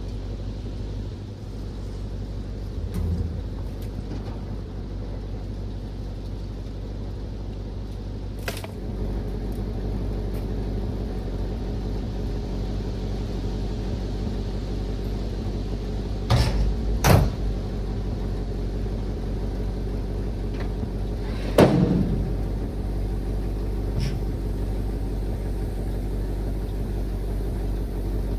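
Chevrolet C50 dump truck's small-block 350 V8 running steadily, its drone stepping up a little about nine seconds in. A few sharp knocks sound over it, the loudest about seventeen and twenty-two seconds in.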